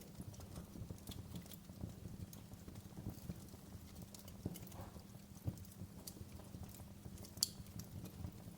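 Wood fire crackling in a fireplace: scattered pops and snaps over a low rumble of the flames, with one sharper pop near the end.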